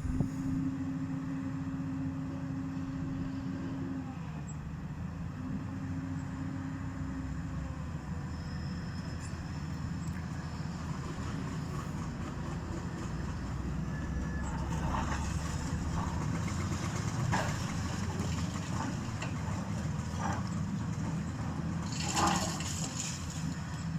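Engine of a heavy machine running steadily during a house demolition, with scattered knocks and cracks of breaking material in the second half and a louder crash near the end.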